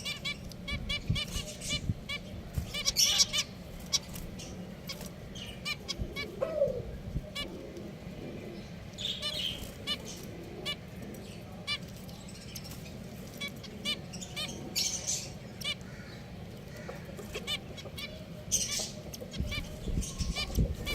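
Pet finches calling: many short chirps repeated in quick runs, with a few louder flurries over a low background hum.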